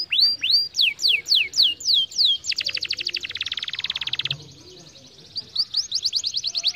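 Domestic canary singing: fast runs of repeated, downward-sliding whistled notes, a very rapid trill in the middle, a brief pause, then another quick run of notes.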